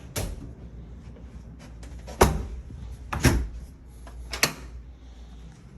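A door knocking and banging shut: three sharp knocks about a second apart, the loudest about two seconds in, over a low steady hum.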